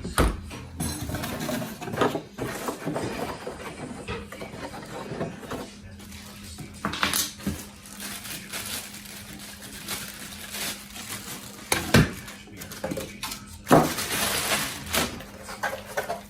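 Handling noise of a robot vacuum's plastic parts and packaging being unpacked and set down: irregular rustling and clatter, with sharp knocks about twelve and fourteen seconds in.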